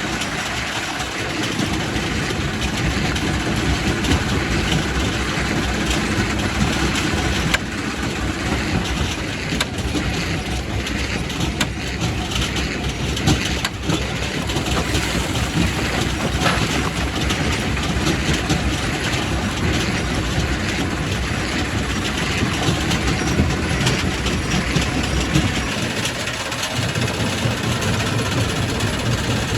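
Quarry primary rock crusher running: a steady, heavy mechanical rumble with rock grinding and a few sharp knocks of stone. Near the end the low rumble shifts to a steadier hum.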